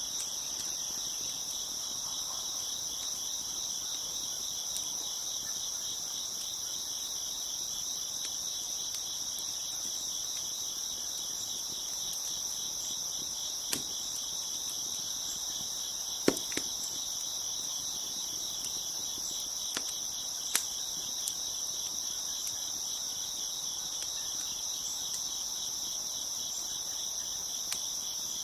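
Crickets chirping steadily in a dense, continuous high chorus, with a handful of sharp pops and cracks from a wood fire, the loudest about halfway through.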